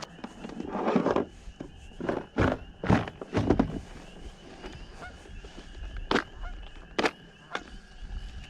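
Geese honking in the background, with several sharp knocks and clatters of gear being handled close by.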